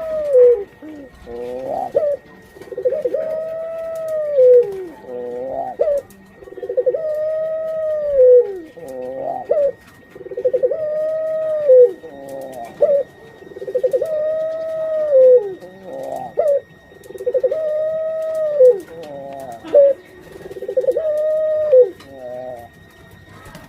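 Breeding puter pelung dove (domestic ringed turtle dove) cooing in a repeated phrase, about seven times, roughly every three and a half seconds. Each phrase has a short stuttering lead-in, then a long arched coo ending in a sharp, louder accent.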